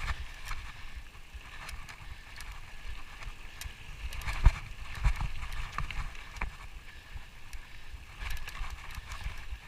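Hiker's footsteps and gear rustling on a trail, heard as uneven low thuds and scattered sharp clicks over a faint steady hiss, with one louder knock about halfway through.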